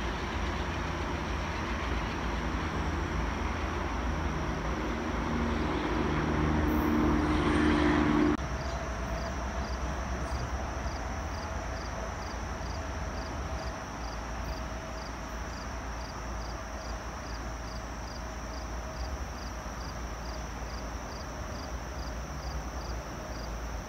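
Passing train running with a low drone and a rising noise that cuts off abruptly about eight seconds in. After the cut comes a quieter steady hum with faint regular ticking, about one and a half ticks a second.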